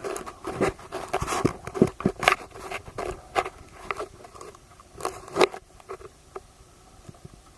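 A rapid, irregular run of sharp clicks and knocks with bits of scraping in between, about two or three a second, loudest around the middle and again about five seconds in.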